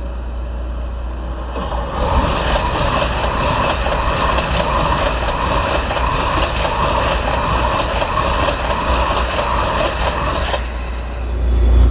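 ICE 4 high-speed electric train passing close at speed: a broad rushing of wheels on rail and air that sets in about two seconds in, pulses faintly and evenly as the cars go by, and drops away shortly before the end, over a steady low rumble.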